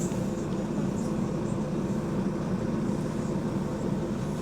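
Double-decker bus engine running steadily, heard from inside the bus as a continuous low drone. The bus has a leaking exhaust.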